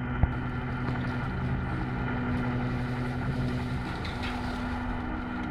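A steady low mechanical hum, like a motor running, with one faint click just after the start.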